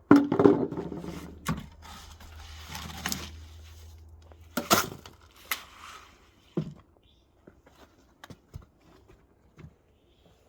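Masonry work: a loud knock, then scraping, then several sharp knocks, thinning out to scattered small clicks.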